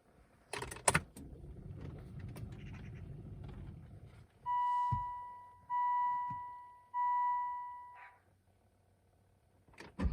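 Car keys jangle and click into the ignition of a 2004 Volvo XC70 D5, then a low hum runs for about three seconds as the ignition comes on. Three electronic dashboard chimes follow about a second apart, each fading away. Near the end the starter begins cranking the cold diesel.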